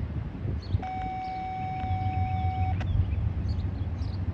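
Norfolk Southern intermodal freight train rumbling steadily past as it climbs the grade, with birds chirping. About a second in, a steady electronic beep sounds for about two seconds and cuts off.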